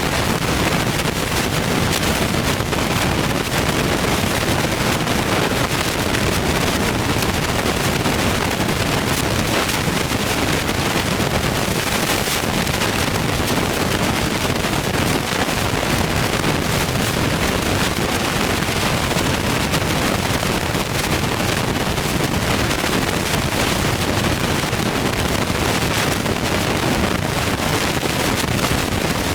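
Turbocharged Ford Boss 302 V8 running, a loud, steady, rough sound with rapid crackling and no change in pitch.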